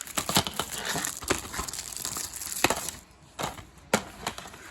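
Plastic DVD packaging being handled and opened: dense crinkling and crackling with sharp clicks for about three seconds, then a short lull and a few more clicks.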